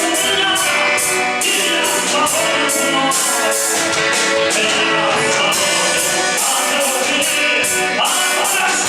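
Live vocal-instrumental band playing a song: guitars, vocals, and a steady beat of drum or percussion strokes.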